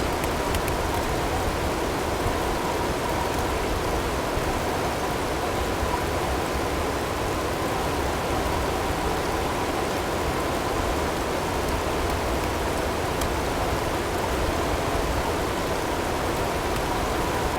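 Snowstorm ambience: wind with driven snow and hail, an even, steady hiss. A faint steady tone is blended in underneath.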